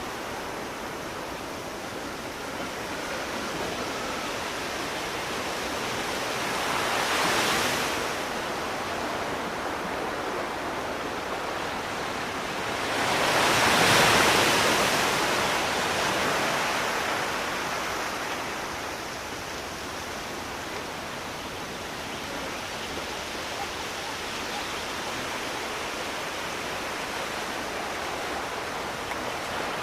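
Sea waves breaking on a shore over a steady wash of surf. One wave comes in about seven seconds in, and a bigger one, the loudest, swells and fades between about 13 and 16 seconds.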